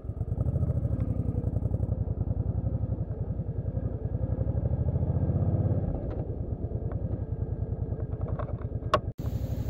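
Suzuki Boulevard motorcycle engine running at a steady pulsing beat, easing off slightly about six seconds in, with a brief break near the end.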